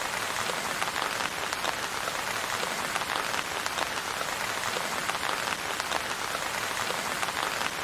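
Steady rain falling on a surface, an even hiss dotted with many small drop patters.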